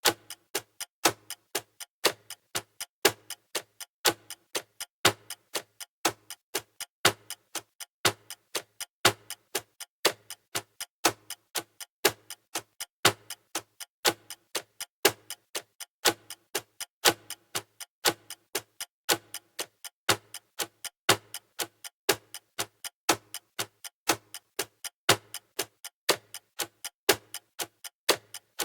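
Clock-style ticking of a countdown timer's sound effect: an even, unbroken run of sharp ticks, several a second, some louder than others.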